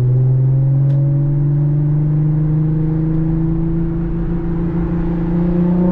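2017 Audi SQ5's V6 exhaust, with AWE non-resonated downpipes and Touring catback, heard from inside the cabin while the car pulls in second gear. Its steady drone rises slowly in pitch as the revs climb.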